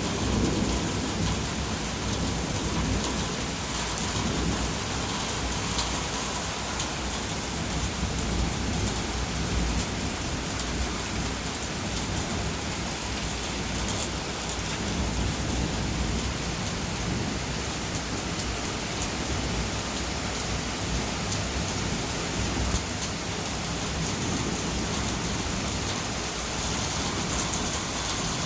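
Steady heavy rain falling, with low rolling rumbles of thunder swelling and fading several times.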